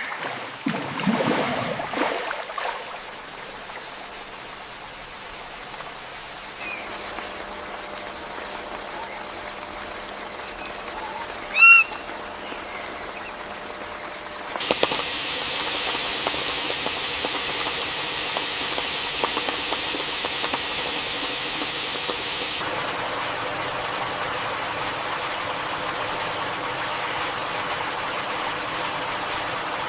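Rainforest ambience of steady rain hiss with occasional animal calls: a few in the first two seconds and one loud short call near the middle. About halfway through the rain hiss gets louder and brighter and stays so.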